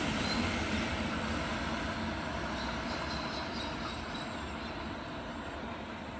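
Endeavour diesel railcar set running away down the line after departing, its sound fading steadily as it recedes.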